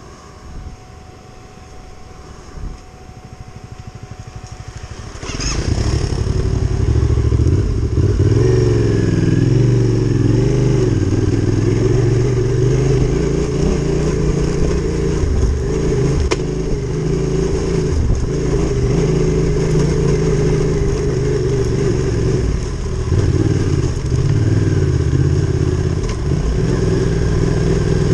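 Adventure motorcycle engine: fairly quiet at first, then about five seconds in it opens up loudly and keeps revving hard, pitch rising and falling, as the bike pulls up a loose off-road climb.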